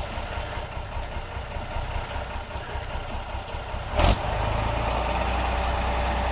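Truck engine running with a rough, noisy rumble. About four seconds in there is a sudden loud thump, and after it a steadier low drone.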